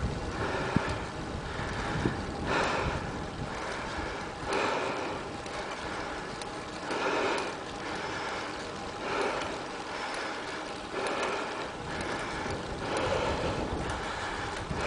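Wind buffeting the microphone of a handheld camera on a bicycle climbing into a headwind: a low rumble with a whooshing swell about every two seconds.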